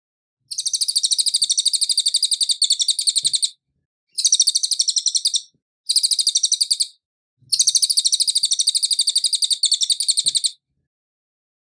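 Cililin singing in four bursts of fast, high, evenly repeated trilled notes, the first and last each about three seconds long and the middle two shorter, with brief pauses between them.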